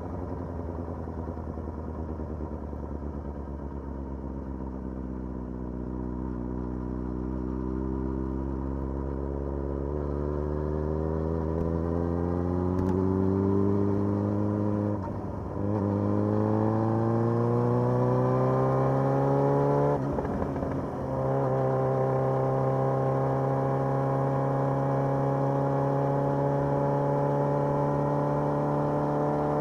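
Motorcycle engine pulling through the gears: its pitch climbs steadily for about fifteen seconds, dips briefly at a gear change, climbs again, shifts once more about twenty seconds in, then holds a steady pitch at cruising speed.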